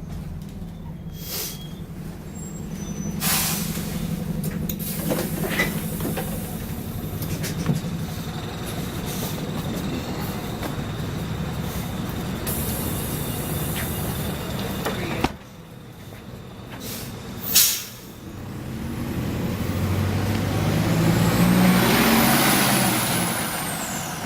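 Optare Solo bus's diesel engine running, with hisses of compressed air from the air brakes. About two-thirds in the sound drops to a quieter idle and a sharp air release follows. The engine then swells and fades as the bus moves off, under a thin high squeal that glides up and down.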